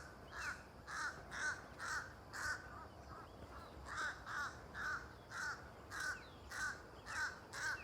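A crow cawing over and over in short, harsh calls, about two a second, with a brief pause partway through.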